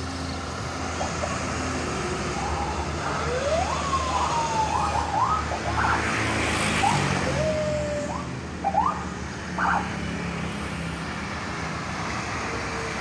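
Road traffic with engines running, with short rising siren whoops cutting in and out.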